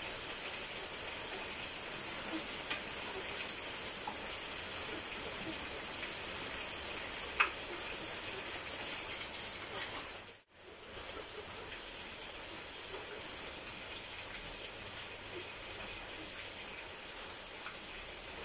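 Heavy rain falling steadily, a dense even hiss. A single sharp click comes about seven seconds in, and the sound cuts out for a moment about ten seconds in.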